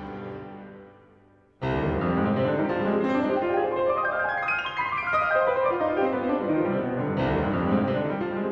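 Background piano music: a few soft notes fade away, then a fuller, louder piano passage starts about one and a half seconds in.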